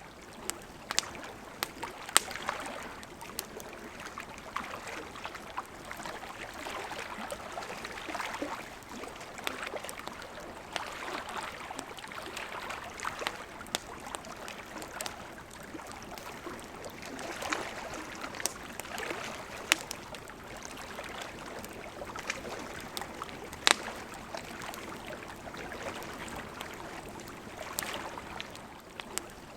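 Wood campfire crackling, with sharp irregular pops over a steady wash of small lake waves lapping at the shore.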